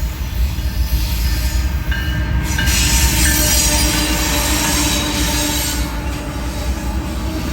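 Freight train rolling past on the rails: a steady low rumble of wheels on track, with a high squeal and hiss of steel wheels rising about two and a half seconds in.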